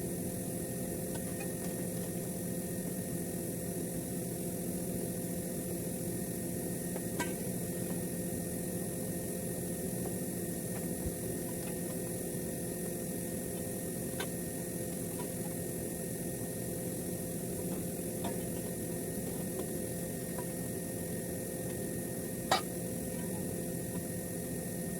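A steady mechanical hum with a few sharp clicks or taps spaced several seconds apart, the loudest near the end.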